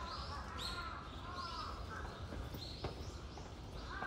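Birds calling over and over in short arched calls, over a steady low background hum, with a few sharp clicks.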